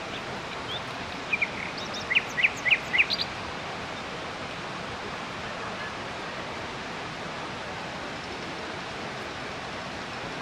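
Steady rush of the Dzhurynskyi waterfall, with a bird giving a quick series of short chirps about one to three seconds in.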